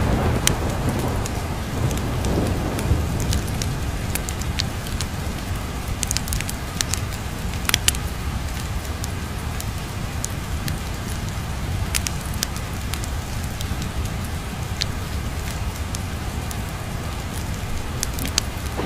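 Steady rain with the sharp crackles and pops of a wood fire scattered through it, and a low thunder rumble dying away in the first few seconds.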